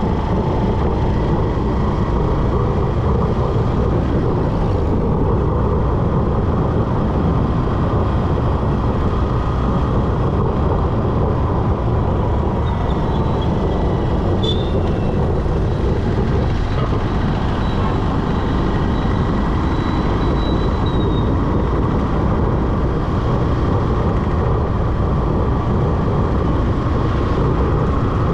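Steady rush of wind and road noise on a moving motorcycle, dense and low, with a faint high tone through the middle.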